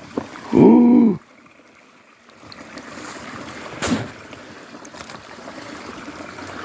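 Water trickling and splashing beside a small boat while a fishing rig is lifted out. About half a second in there is a short hummed voice sound, and later two sharp knocks.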